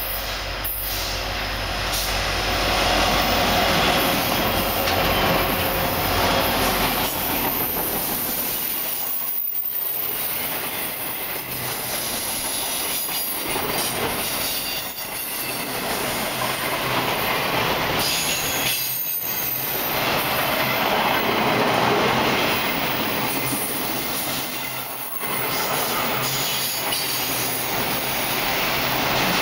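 A freight train passing close by, led by two EMD SD70MAC diesel-electric locomotives whose engines give a low rumble in the first several seconds. Empty autorack cars follow, rolling by with steady loud wheel-on-rail noise, some clacking over the rail joints and high-pitched wheel squeal.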